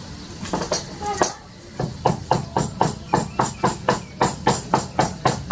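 Rapid, even tapping knocks, about five a second, starting about two seconds in, with a few scattered taps before.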